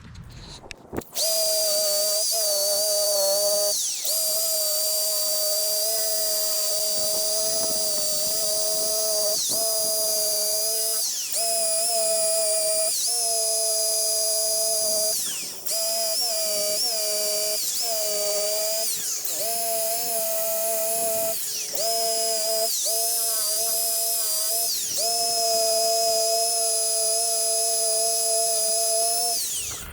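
DeWalt drill spinning a wire wheel against the bubbled paint and rust of a car's quarter panel. It runs in long steady stretches, with several short breaks where the motor winds down and back up.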